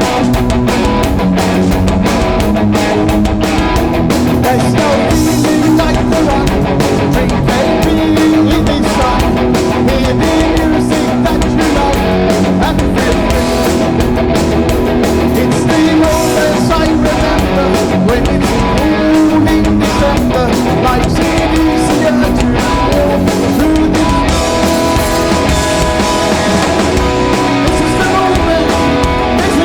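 Live oi punk band playing loud, with electric guitars, bass and drums.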